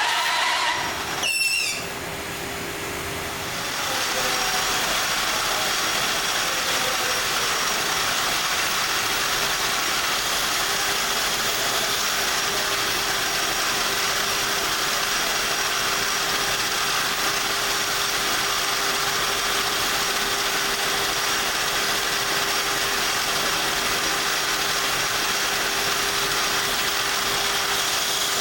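Machinery running steadily: a constant hum under an even hiss, settling in a few seconds in after a brief louder, shifting sound.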